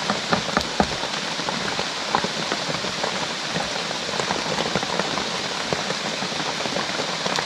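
Steady heavy rain falling, with many small drop hits scattered through it.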